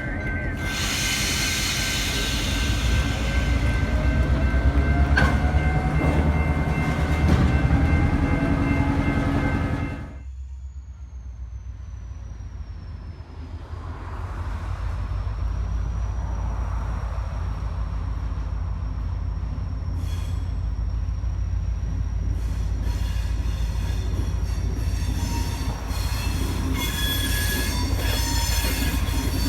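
Train rolling past with a low rumble and high, steady steel wheel squeal. About ten seconds in the sound drops abruptly to a quieter rumble with a thin squeal that slides down and back up in pitch, and several squeal tones return near the end.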